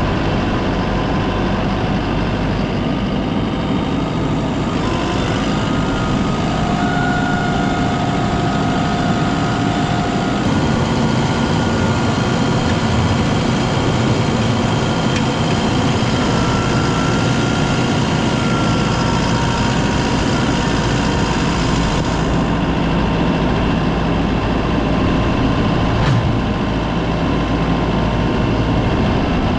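Tractor engine running steadily while packing silage, with a few faint whining tones partway through.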